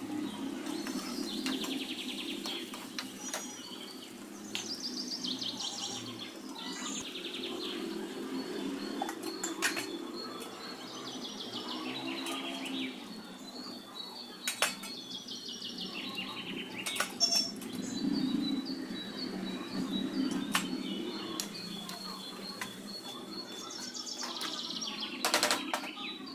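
Birds chirping in short repeated trills over a steady low hum, with scattered sharp clicks.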